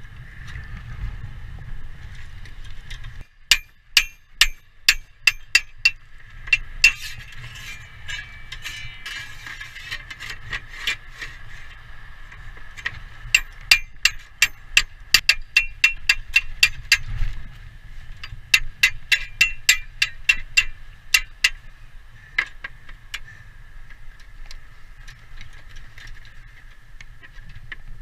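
Hammer blows on metal during slate roof repair, with a clear ring to each strike. They come in three quick runs of several strikes each, with a few single taps in between.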